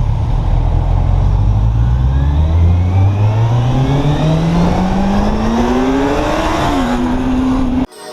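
Kawasaki Z800 inline-four engine pulling hard, its pitch climbing steadily for about seven seconds, dipping briefly and levelling off near the top, then cut off abruptly just before the end.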